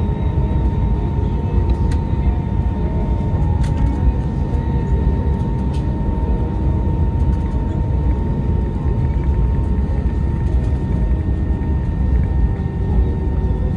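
Airbus A319 jet engine and airflow noise heard inside the cabin: a steady low rumble with a steady whine on top.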